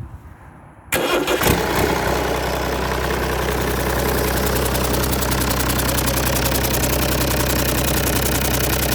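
Perkins Phaser 1006T six-cylinder turbo diesel starting: it catches about a second in after a very brief crank and settles straight into a steady, evenly pulsing idle.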